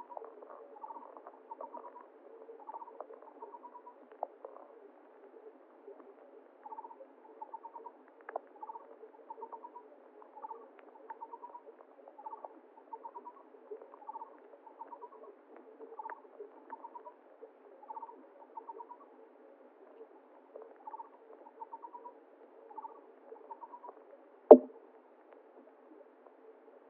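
A small animal's call, a short rapid trill at one pitch, repeats roughly once a second over faint flowing water. A single sharp knock comes near the end.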